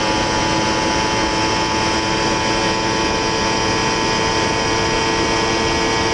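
Sport-bike inline-four engine running at steady revs, its pitch holding nearly level with a slight sag.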